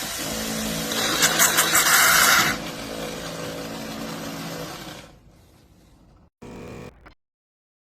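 Philips 3300 Series LatteGo espresso machine running with a steady hiss and a low pump hum, with a louder stretch of several quick spurts between about one and two and a half seconds in. It dies down about five seconds in and goes silent.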